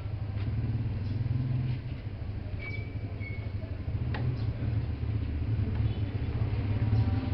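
A steady low mechanical rumble, with a few light clicks and a short high tone about three seconds in.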